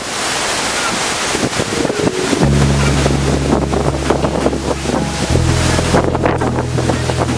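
Steady roar of a large waterfall with wind buffeting the microphone, under background music whose deep held bass notes change twice.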